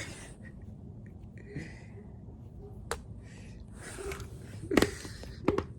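A few sharp, separate clicks and taps: one about three seconds in, a louder one near five seconds, and a cluster just before the end, with soft rustling between them.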